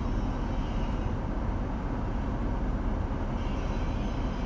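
Freight train of tank cars rolling through a level crossing, heard muffled from inside a stopped car: a steady low rumble.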